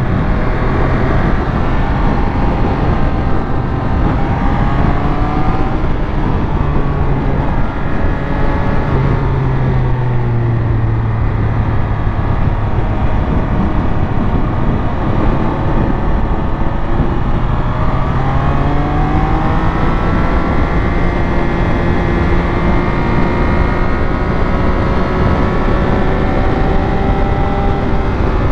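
Triumph Speed Triple 1200 RS's inline-three engine under way, heard from on the bike. Its pitch drops twice, around four and ten seconds in, as the throttle comes off, then climbs from about eighteen seconds in and holds steady, with a steady rush of wind noise underneath.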